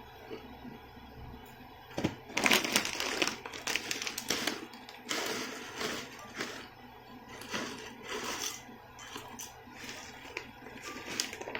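Close-miked eating of black bean ramyun: a run of noisy slurps and chewing of the noodles, beginning about two seconds in.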